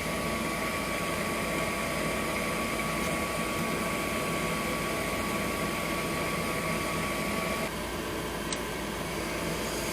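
Gas furnace draft inducer motor running steadily with a faint whine while the furnace retries its ignition sequence, ending in a single short click near the end. The hot surface igniter has failed, so the burners do not light.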